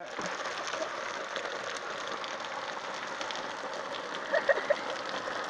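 Heavy rain pouring down: a steady, dense patter.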